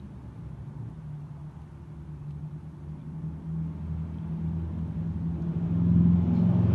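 Car engine running with a steady low hum, growing gradually louder and loudest about six seconds in.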